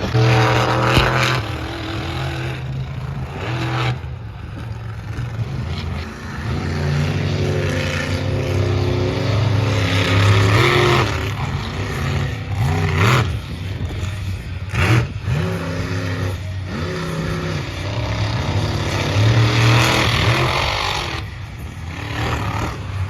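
Monster truck engines revving and running in loud surges that rise and fall, with a couple of short sharp bangs about halfway through.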